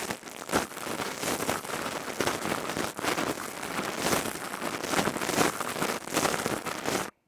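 ASMR crystal tube trigger handled close to the microphone: a dense, continuous crackling patter of many tiny clicks, like rain, that stops abruptly near the end.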